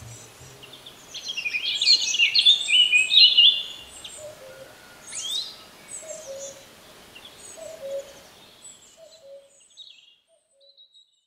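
Wild birds singing: a loud, rapid run of song notes from about a second in to three and a half seconds, with other birds calling more faintly around it, then the birdsong fades out near the end.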